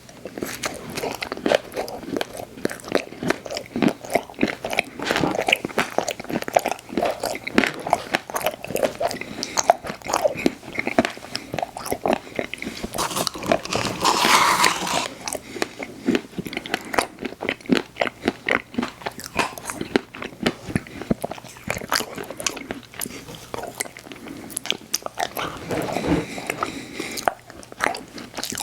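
Close-miked eating of ice cream desserts with cookie pieces: big bites, with crunching and wet chewing in dense, irregular clicks and crackles, and a louder, longer crunch about halfway through.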